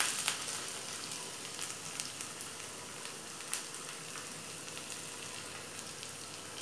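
Finely chopped ginger and garlic sizzling in hot ghee in a small tadka pan. The sizzle is loudest just as they go in and settles within a second to a steady hiss, with scattered pops and crackles.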